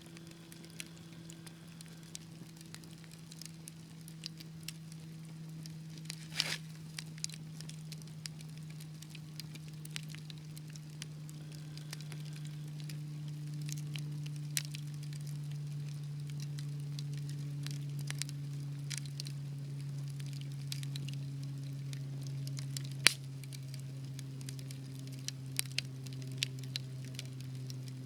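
Fireplace fire crackling with scattered sharp pops, two louder ones about a quarter of the way in and near the end, over a low steady hum that slowly grows louder and sinks a little in pitch.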